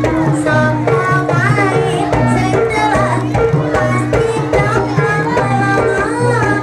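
Live kuda kepang accompaniment music: Javanese hand drums beating steadily under a wavering pitched melody and a constant low drone.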